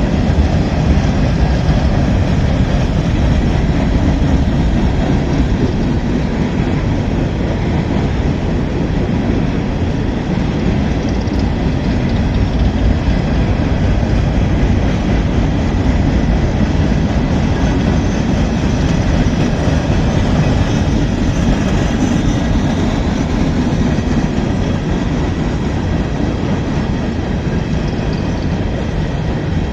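Cars of a long train rolling past on the rails: a loud, steady rumble of wheels on track.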